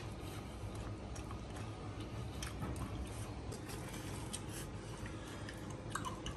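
Faint, scattered clicks and scrapes of chopsticks and a knife pulling apart roasted beef leg on a foil-lined steel tray, with a man chewing hot meat, over a low steady hum.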